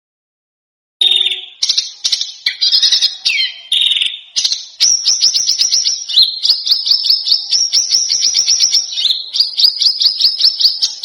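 Songbird calls played back loud after about a second of silence: short, varied high phrases, then from about five seconds in a fast run of sharp high chirps, about ten a second, with small shifts in pitch.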